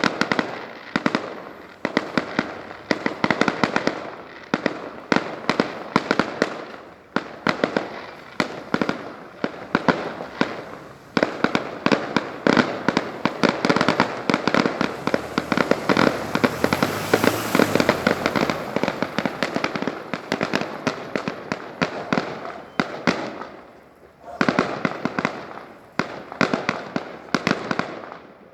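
Fireworks display: a rapid, continuous run of bangs and crackles from many shells bursting, packing into a dense barrage in the middle, with a short lull about 24 seconds in before it picks up again.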